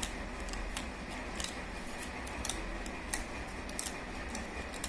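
Scissors snipping paper: about seven short, crisp snips at uneven intervals over a faint steady background hum.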